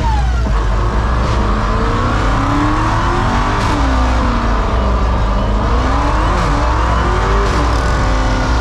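Car engines running and revving, their pitch sweeping up and down over a steady low rumble.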